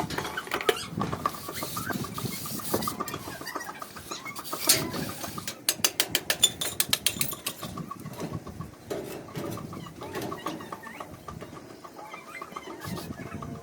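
Chickens clucking, with a quick run of sharp knocks about halfway through.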